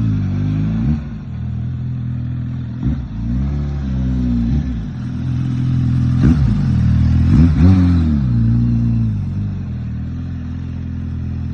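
Suzuki GSX-S1000GT's inline-four engine and exhaust accelerating. The revs climb and then drop sharply several times, with the loudest part about six to eight seconds in.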